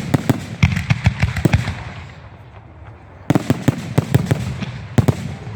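Fireworks going off in rapid, sharp bangs. One dense volley starts at once and runs about a second and a half, a second volley comes after a short lull, and a single loud bang falls near the end.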